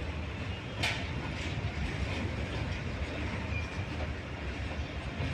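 A train running on the track: a steady low rumble with irregular clanking and clicking, one sharper click about a second in.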